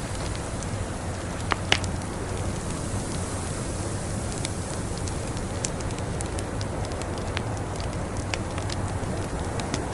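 Wood fire crackling: scattered sharp pops and snaps, two louder ones close together about a second and a half in, over a steady rushing hiss and low rumble.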